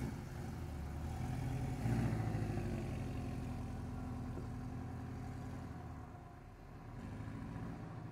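Porsche 718 Boxster's turbocharged flat-four engine pulling away at low speed, with a short rise in revs about two seconds in, then running steadily.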